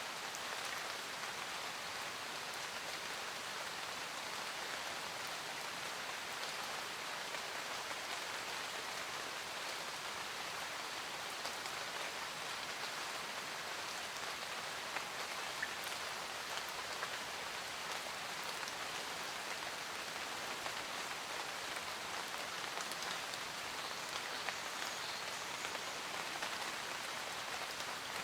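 Steady rain falling, with a constant hiss and scattered individual drops ticking on surfaces.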